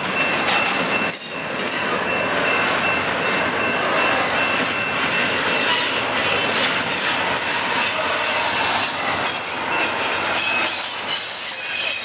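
Double-stack intermodal well cars rolling past: steady noise of steel wheels on rail, with a thin high wheel squeal held through the first half.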